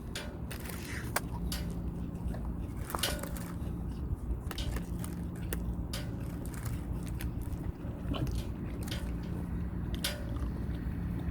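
A person chewing a mouthful of juicy double cheeseburger close to the microphone, with scattered wet mouth clicks, over a steady low hum.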